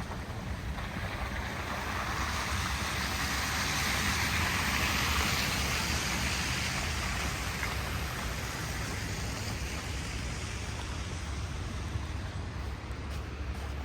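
A vehicle passing on a snowy street: the hiss of its tyres swells for a few seconds and fades. A steady low rumble of city traffic runs underneath.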